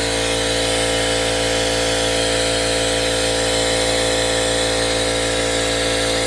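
Shop air compressor running steadily, with a continuous hiss of air from a pneumatic vacuum brake bleeder drawing fluid through the brake lines.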